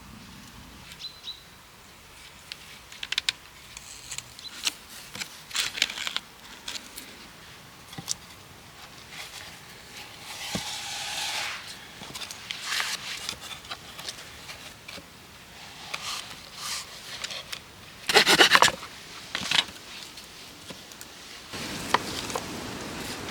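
Intermittent scraping and rubbing with scattered clicks, loudest in a burst about 18 seconds in; a steady hiss sets in near the end.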